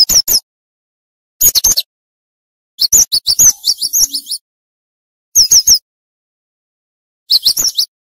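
Cinereous tit (gelatik batu) singing fast: about five short bursts of three or four quick, high, slurred notes, with dead silence between the bursts.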